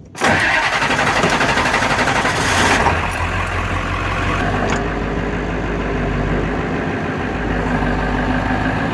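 An engine starts and runs rough and loud for about three seconds, then settles into a steady idle.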